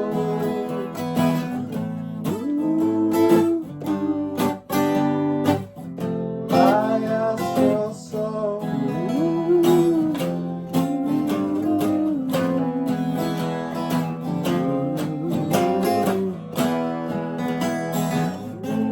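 Acoustic guitars playing an instrumental passage: strummed chords with a sliding melody line over them.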